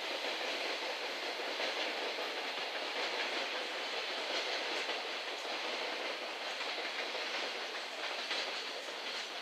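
The rear of a 17-car container freight train rolling away, its wagon wheels clattering steadily over the rail joints in a clickety-clack. The sound eases a little near the end as the train recedes.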